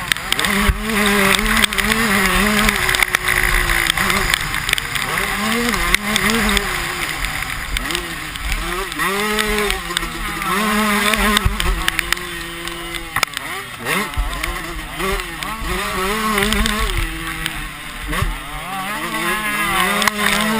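Several motocross bike engines running, their pitch rising and falling again and again as the riders open and close the throttle and change gear.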